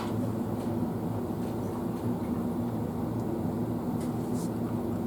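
A steady low hum, like a running appliance or fan, with a few faint ticks over it.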